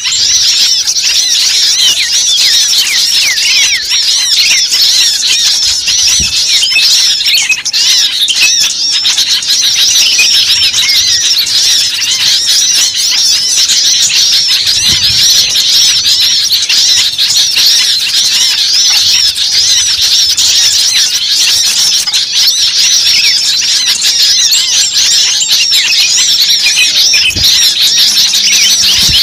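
Noisy flock of many small songbirds chirping and twittering at once, short high-pitched calls overlapping without a break: a bird-luring call recording of an agitated, mobbing flock.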